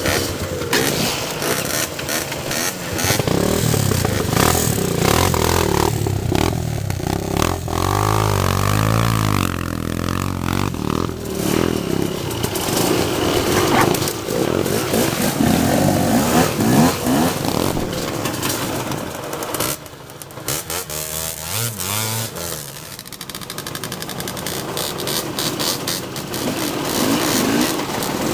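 Motocross dirt bike engine revving up and down as it rides a trail, with clatter. The engine briefly drops off about two-thirds of the way through, then picks up again.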